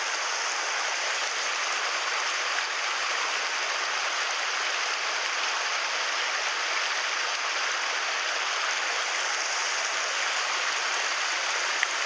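Mountain stream water rushing steadily over rocks, with one light tap near the end.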